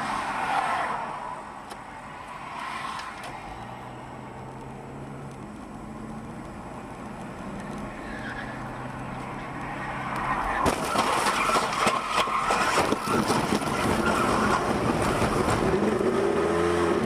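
A car driving on the road, with a steady engine hum and road noise. About ten seconds in, the sound turns louder and rougher, with many sharp knocks and rattles.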